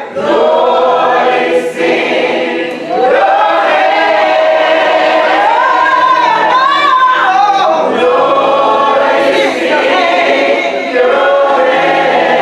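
Church choir singing a gospel song, many voices together in sustained phrases, with brief breaks between phrases about three and eight seconds in.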